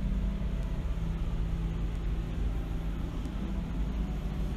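Car engine running steadily, a deep even drone that holds one pitch without revving.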